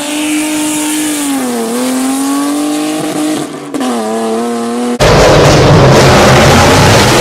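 BMW E30 engine held at high revs, its pitch sagging and climbing back about two seconds in and briefly dropping off near the middle. About five seconds in it cuts abruptly to a louder, rough and noisy engine sound.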